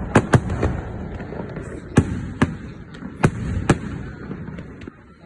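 Fireworks going off: about seven sharp cracks at uneven intervals over a continuous low rumble of further bursts, which dies down near the end.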